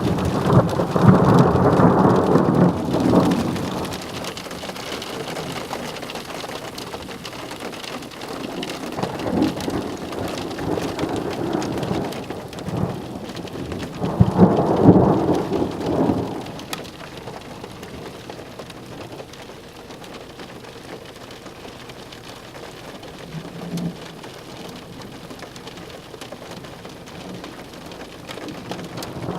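Thunder rumbling over steady rain: a long peal at the start lasting about four seconds, weaker rumbles in between, and a second loud peal about fourteen seconds in.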